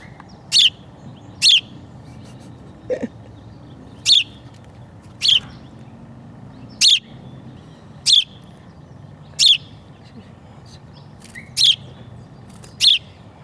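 A fledgling songbird chirping: about ten short, sharp, high chirps, roughly one a second. The bird is a hand-reared young bird now ready to fly.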